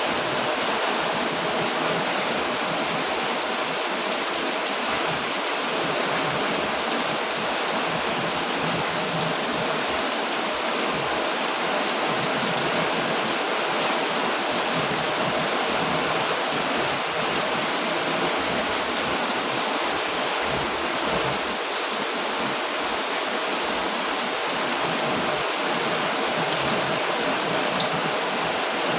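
Heavy rain falling steadily, a dense, even hiss with no breaks or thunder.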